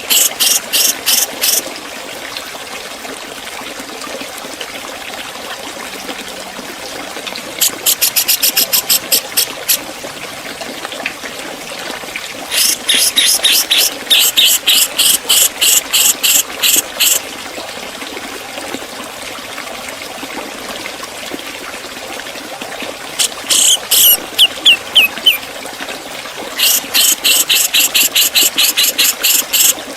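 Grey-cheeked bulbul (Javan cucak jenggot) singing in bursts of rapid, sharp, high repeated notes, five bursts in all, each from one and a half to about four and a half seconds long, over a steady background noise.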